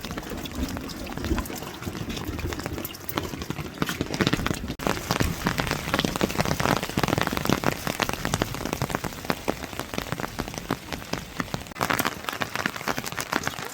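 Steady rain falling, with many close drops pattering on surfaces.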